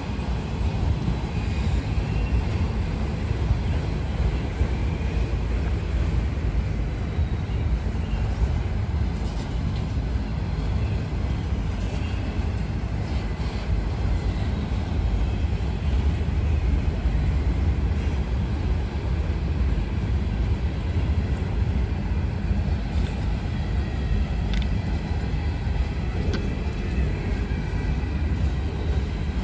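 Freight cars of a CSX train rolling past, first autoracks, then tank cars: a steady rumble of steel wheels on rail.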